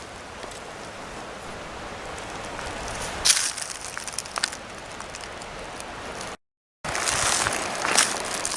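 A steady outdoor hiss with a single crunch about three seconds in. After a brief dropout just past six seconds, footsteps crunch on riverbed gravel and stones.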